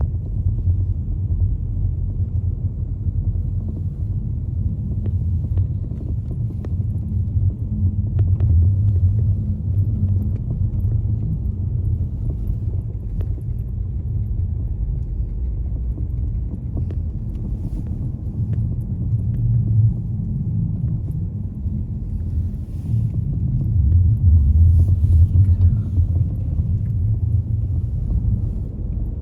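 A car being driven: a steady low rumble of engine and road noise that swells and eases a little, with a few faint ticks.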